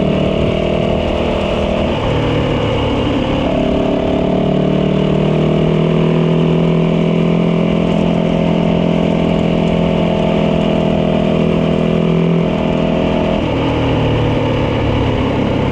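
Yamaha dirt bike engine running under way at a steady cruising speed. The pitch shifts about two seconds in, climbs gently for a few seconds, holds, and then drops near the end.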